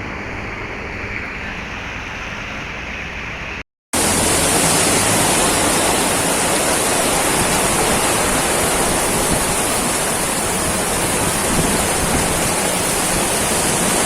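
Heavy downpour: a steady rushing hiss of torrential rain. It is muffled for the first few seconds, then cuts out for an instant about four seconds in and comes back louder and brighter.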